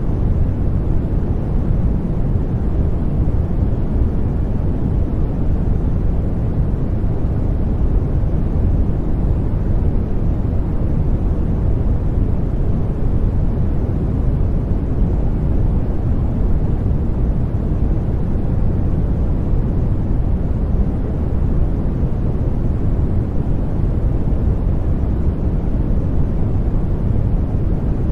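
Steady sleep-aid noise track: an even, unbroken hiss weighted heavily toward the low end, so it sounds deep and muffled rather than bright.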